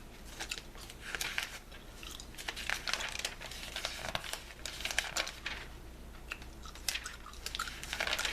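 Magazine pages rustling and being turned, with irregular crisp crinkles and clicks, mixed with the small clicks of bubblegum being chewed.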